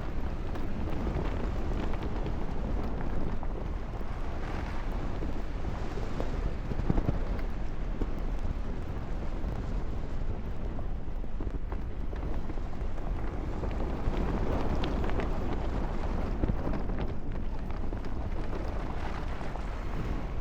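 Wind buffeting the microphone: a steady low rumble that swells and eases every second or two.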